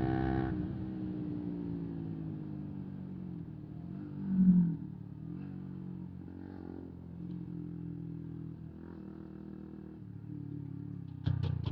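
125 cc single-cylinder motorcycle engine, its pitch dropping as the revs fall off, then running low and steady. There is a brief louder swell about four and a half seconds in, and near the end it revs up sharply with a rapid pulsing exhaust note.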